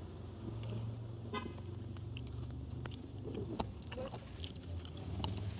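Someone eating chicken wings, with soft chewing and mouth clicks over a steady low hum.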